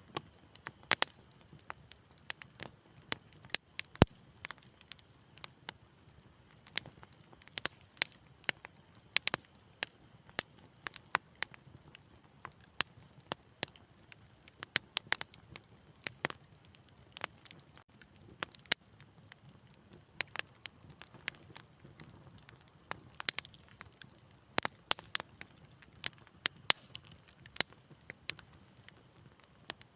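Wood fire crackling in a fireplace: irregular sharp pops and snaps, several a second, over a faint low rumble of burning, with one louder crack about four seconds in.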